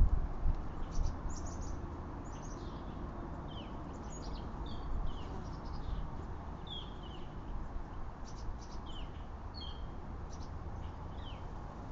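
Small birds chirping: many short, high chirps, some falling in pitch, scattered throughout, over a steady low background hum.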